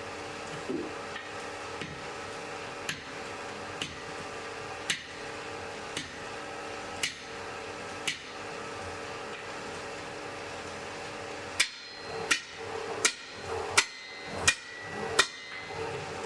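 Blacksmith's hammer striking on an anvil: a run of lighter blows about one a second, then after a pause a quicker series of about seven harder blows, several leaving a short metallic ring. A steady background noise runs underneath.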